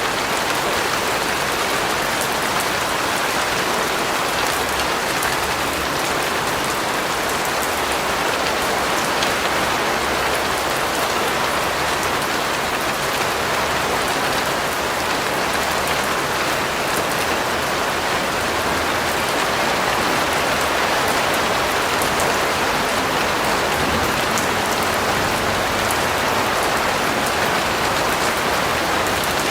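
Steady rain falling, an even hiss of drops with fine pattering, holding constant.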